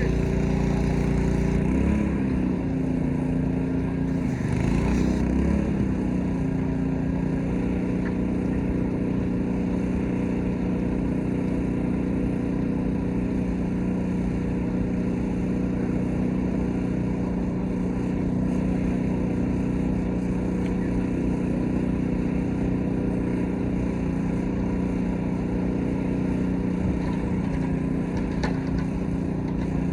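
Small gas engine of a pressure washer running steadily, its pitch wavering a few seconds in before it settles.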